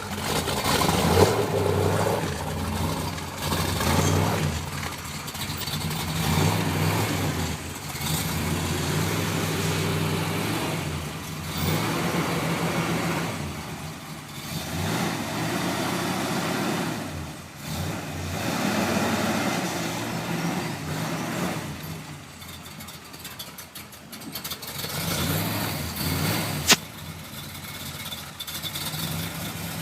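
The V8 of a 1963 Corvette C2 split-window running and being revved again and again, with the engine rising in a swell every few seconds and falling back toward idle in between. A single sharp click late on.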